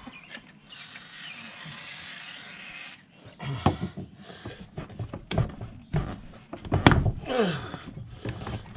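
A steady hiss for about three seconds, then irregular knocks, scrapes and short rubbery squeaks of tire irons working a motorcycle tire and tube off the wheel rim.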